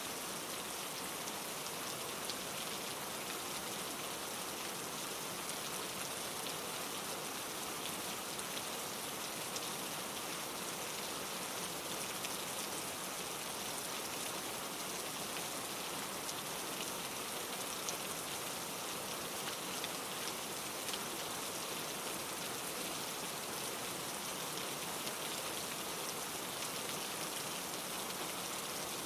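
Steady rain falling on leaves, a constant hiss with many small pattering drop ticks.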